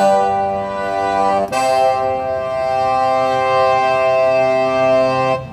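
Yamaha CK61 stage keyboard playing a sustained wind/brass patch: one held chord, then a second chord from about a second and a half in, held until it stops suddenly near the end.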